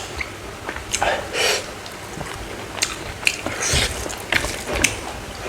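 A person biting and chewing smoked frog close to the microphone, with irregular clicking and smacking mouth noises.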